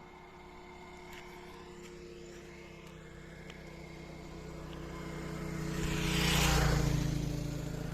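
A motor vehicle approaching and passing close by on a paved road, its engine hum and tyre noise growing to a peak about six and a half seconds in, the pitch dropping slightly as it goes by, then fading.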